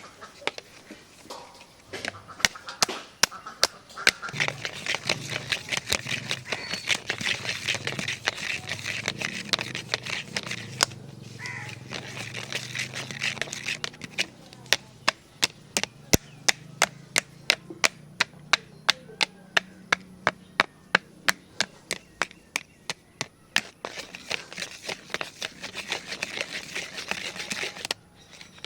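Fingernails scratching and tapping on the plastic body of a large camera, with a dry rasping hiss and many sharp clicks. In the middle stretch the taps come evenly at about two a second.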